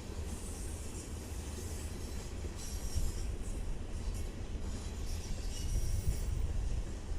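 BNSF oil train's tank cars rolling past with a steady heavy rumble. A high-pitched wheel squeal comes and goes over it.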